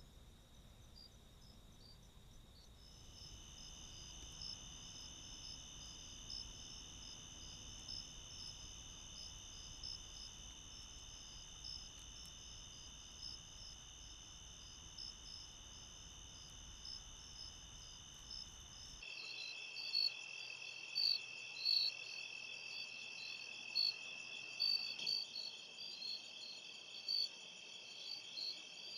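Chorus of crickets and other insects: steady high-pitched trills with short chirps repeating several times a second. About two-thirds of the way through it changes abruptly to a louder chorus with sharper chirps.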